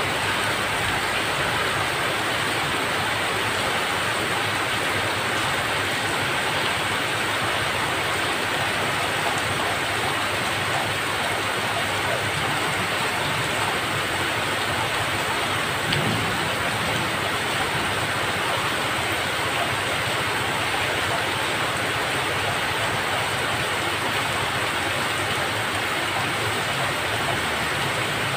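Steady heavy rain, a dense even hiss of falling drops.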